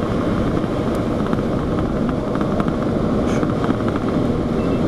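Steady low rushing noise of storm wind and a running vehicle, with a few faint clicks.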